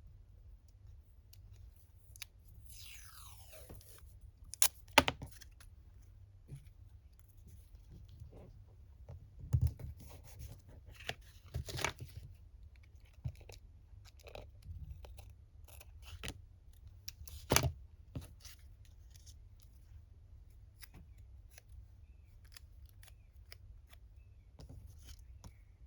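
Paper crafting at the table: scissors cutting paper and paper scraps being handled, with scattered small clicks and a few sharp taps of tools or paper set down on the table.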